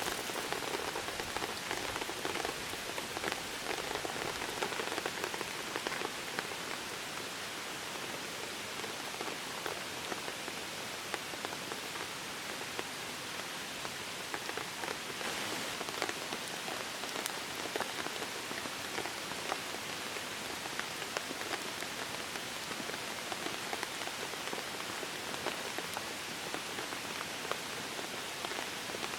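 Steady rain falling, a dense patter of many small drops that keeps on without a break.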